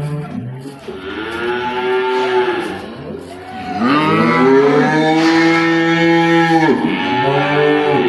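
Cattle mooing: three long, drawn-out calls, the middle one the longest and loudest.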